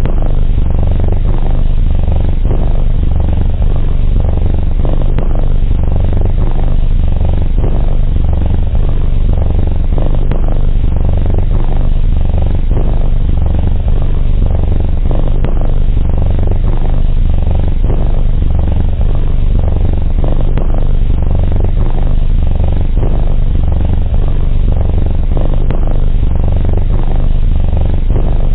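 Domestic cat purring: a loud, steady, low rumble that goes on without a break.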